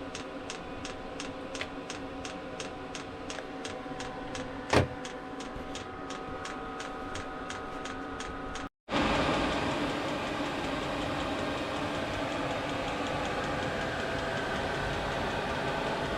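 Regular ticking about three times a second over a steady hum with several tones, typical of a running Chinese diesel heater's fuel dosing pump and blower, with one sharper click near the middle of that stretch. After a sudden break, a steady rushing noise.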